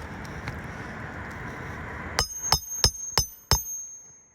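Hammer striking a metal roof snake to seat a roofing nail under a shingle: five quick ringing metal blows, about three a second, starting about two seconds in. Before them, a steady hiss of background noise.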